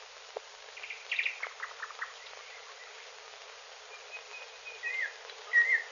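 Small birds chirping and twittering in short trills, with a few whistled gliding notes near the end, over the steady hiss of an old film soundtrack.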